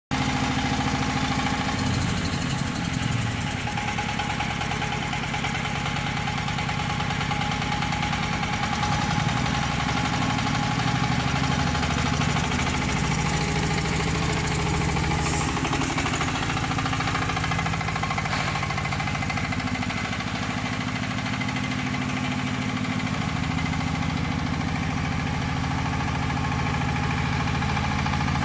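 Engine of a 40HP crawler mini tractor running steadily, with small rises and falls in its pitch.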